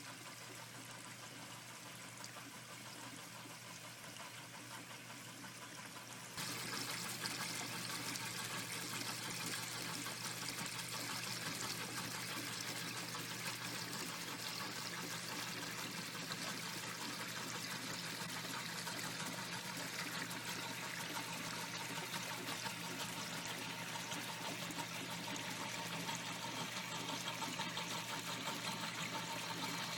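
Water from a small garden waterfall splashing and trickling steadily into a pond. About six seconds in it gets louder and brighter, and stays that way.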